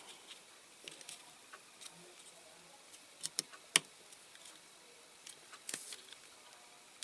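Small clicks and light taps of parts being handled and pressed into a diecast toy car as its interior is fitted, with a cluster of clicks a little over three seconds in, the sharpest click just after, and another cluster near the end.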